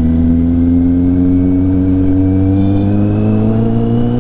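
Kawasaki Z800's inline-four engine pulling steadily, its pitch rising slowly as the bike gathers speed.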